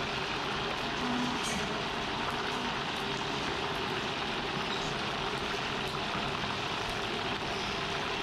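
Fish balls deep-frying in hot oil, a steady sizzling hiss.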